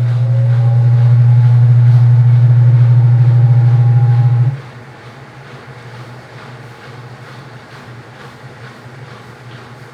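Midea 12 kg washing machine's motor running the drum: a loud steady low hum with faint rising whine above it, stopping abruptly about four and a half seconds in, after which a much quieter hum carries on.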